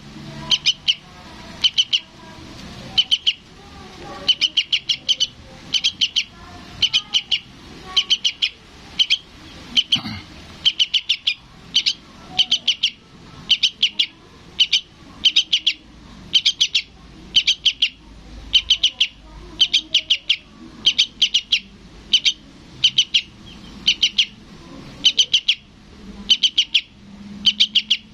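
Yellow-vented bulbul (trucukan) fledgling calling for its parent: short bursts of rapid high chirps, repeated about once a second.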